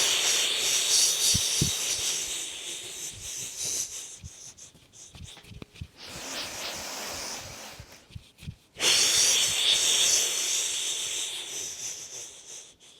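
Two long, breathy, whispered 'heee' exhalations, the qigong healing sound 'HE', each pushed out hard at first and then trailing off, with a pause of a couple of seconds between them.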